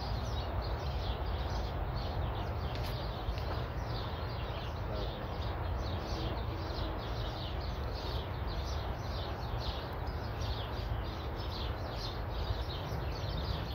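A bird chirping over and over, short high notes sliding downward at about two to three a second, over a steady low outdoor rumble.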